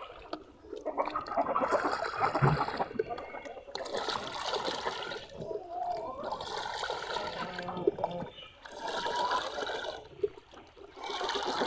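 Water running and splashing in several spells of a few seconds each, with short breaks between them.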